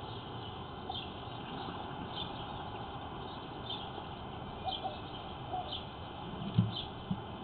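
A bird chirping over and over, short high chirps about once a second, over a steady background hiss. There is a single dull thump near the end.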